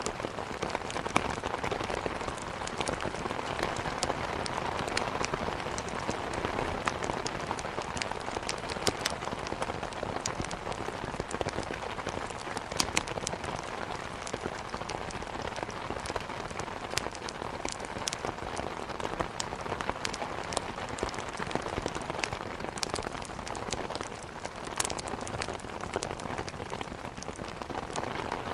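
Steady heavy rain beating on a window, with frequent sharp pops and ticks of a wood fire crackling over it.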